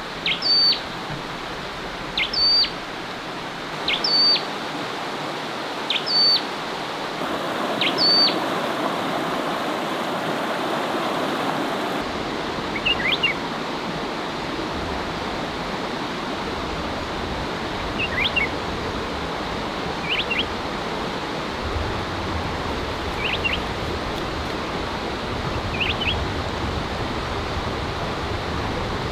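Wild birds calling over a steady rushing background. A short, hooked high call repeats about every two seconds for the first several seconds, then gives way to sparser, different chirps every two to three seconds.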